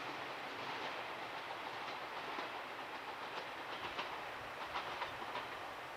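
A train running on the rails, a steady rumble with a run of sharp clicks from the wheels over rail joints about two seconds in.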